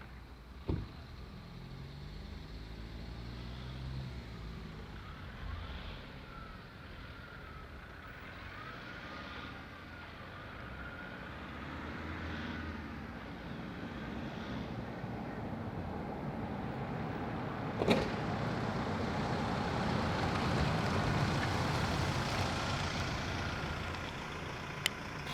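Nissan Navara D22's 2.5-litre YD25 turbo-diesel four-cylinder running on the road, its engine note rising and falling with the revs while road and wind noise build in the second half. A sharp click sounds once about two-thirds of the way through and again near the end.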